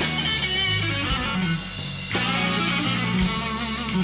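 Live slow blues band playing: electric guitar fills with bent notes between vocal lines, over bass and drums.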